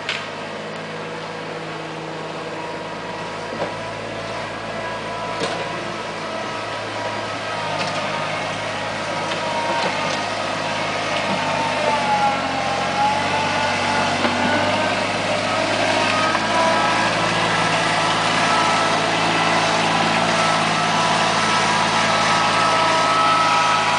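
Backhoe's diesel engine running steadily, its pitch dipping and rising again about halfway through, and growing gradually louder. A few short clicks sound in the first few seconds.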